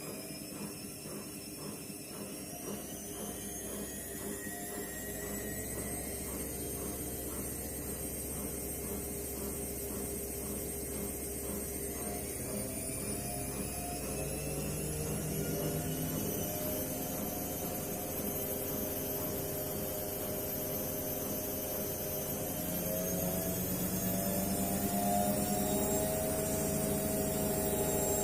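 Washing machine motor and drum running, with a whine that climbs in pitch in several steps as the drum speeds up into the spin cycle, shoes inside the drum. A faint regular pulsing in the first half smooths out as the speed rises.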